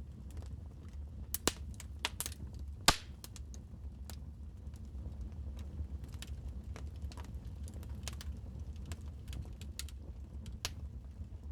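Wood fire in a fireplace crackling, with irregular snaps and pops over a low steady rumble. A few sharper pops stand out in the first three seconds.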